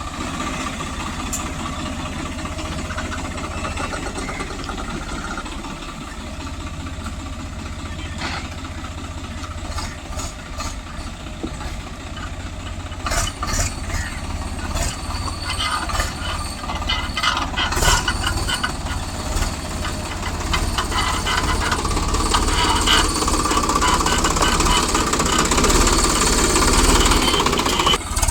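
Heavy earth-moving machinery engine running steadily, with metal knocks and clanks from about halfway through that grow louder near the end, as a JCB loads a tractor dumper trailer.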